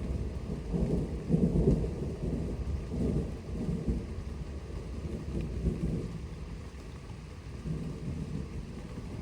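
A thunderstorm's thunder rumbling in long, uneven swells. It is loudest about a second and a half in, then rolls on in smaller waves and dies down, with one more weak swell near the end.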